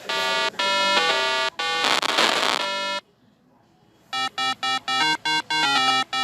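Bright electronic tones with many overtones, held in short blocks, then a brief pause about three seconds in, then a quick run of short beeping synthesizer notes like a ringtone melody.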